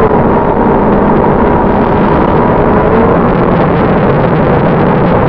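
Onboard audio of an FPV model jet in flight: heavy, steady wind rush on the microphone, with a faint motor whine that wavers a little in pitch.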